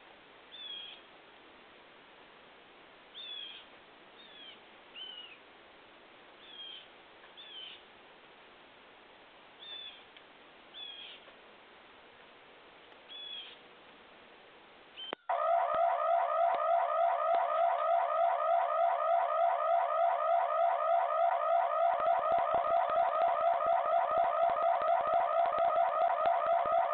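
A bird gives about ten short chirps over a steady hiss. About halfway through, a loud, electronic-sounding tone cuts in abruptly and holds, with several steady pitches pulsing rapidly.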